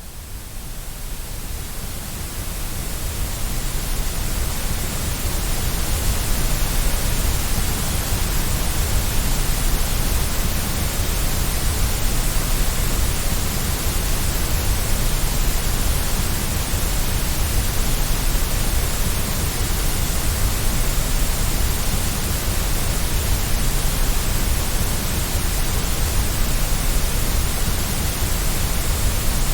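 Steady white noise, an even hiss with a heavier low rumble, rising in level over the first few seconds and then holding steady.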